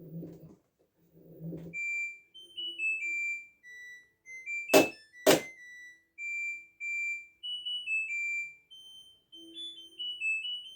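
LG F12A8ND washing machine's electronic beeper playing its end-of-cycle melody, a tune of clear high beeps, with two sharp clicks about halfway through. Two short low rumbles come just before the tune starts.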